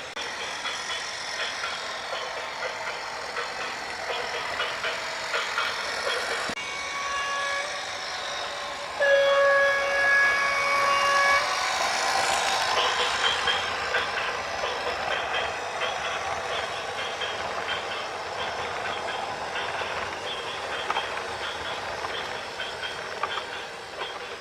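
A horn with a steady, many-toned pitch sounds twice over continuous mechanical clatter: a fainter blast about six and a half seconds in, then a louder one about nine seconds in that lasts over two seconds.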